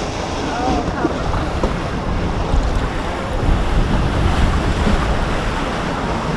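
Rushing, churning water of a river rapids ride around the raft, with wind buffeting the microphone as a low rumble that swells about halfway through.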